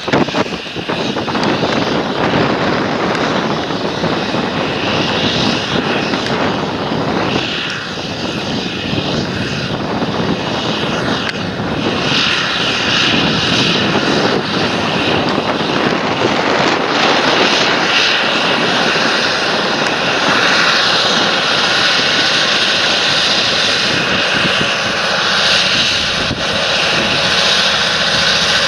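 Large John Deere tractor's diesel engine running steadily while working the field: a loud, continuous engine rush with faint steady tones through it.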